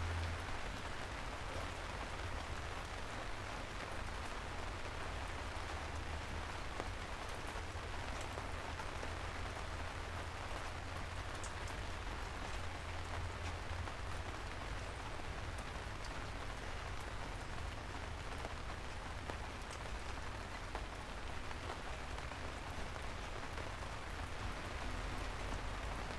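Steady rain falling on a surface, an even hiss with scattered individual drop ticks and a low rumble underneath.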